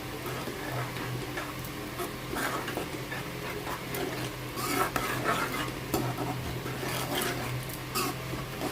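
A spoon stirring and scraping in a pan of sizzling tomato masala as the water from boiled potatoes is poured in, with many short scrapes and clicks against the pan. A steady low hum runs underneath.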